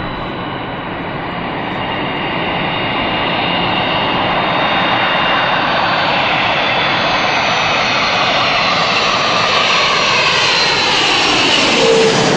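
Jet airliner on low final approach, its engines growing steadily louder as it nears. Near the end a sweeping rise and fall in pitch marks it passing close by.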